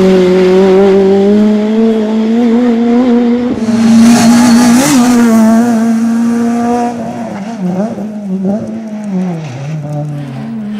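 Peugeot 206 S1600 rally car's high-revving 1.6-litre four-cylinder engine, held at high revs under hard driving. A loud rush of tyre noise comes in about four seconds in. The sound then drops off, and the revs fall twice near the end as the car lifts and changes gear.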